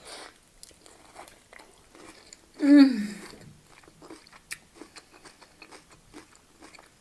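Close-miked chewing of a mouthful of soft stuffed bell pepper with cheese and sour cream: wet mouth clicks and smacks throughout. About three seconds in comes a short hummed 'mmm' that falls in pitch, the loudest sound.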